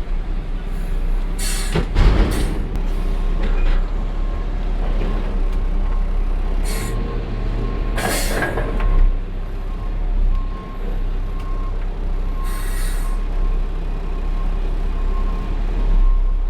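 Peterbilt 520 garbage truck's diesel engine running with a steady low rumble. Four short hisses of air come from the truck's air brakes.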